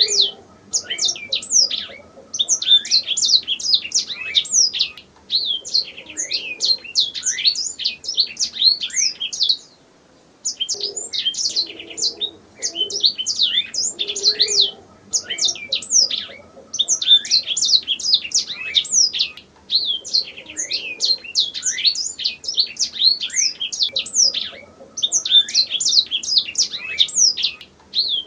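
Domestic canary singing long phrases of rapid trills and chirps, each running a few seconds before a short pause.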